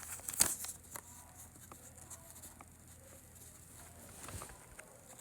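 Scattered light taps and handling noises, with one louder knock about half a second in.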